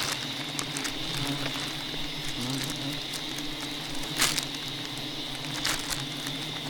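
Wild honeybees buzzing steadily around their nest, a wavering hum with a high insect whine over it, broken by a few sharp cracks, the loudest about four seconds in.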